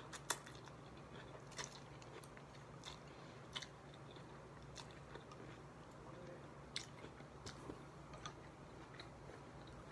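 Faint, close mouth sounds of someone eating chicken pho: chewing and biting, with about a dozen soft, sharp clicks and crunches scattered through it over a faint low hum.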